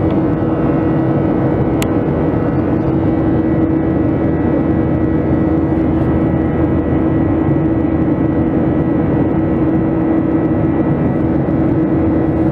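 Boeing 737-700's CFM56 jet engines running steadily, heard from inside the passenger cabin as a constant rush with an unchanging hum. A single sharp click sounds about two seconds in.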